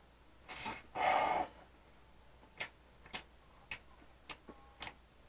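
A person biting into a soft bread roll and chewing: a short breathy rush about a second in, then a run of brief, sharp wet mouth clicks about every half second as the mouthful is chewed.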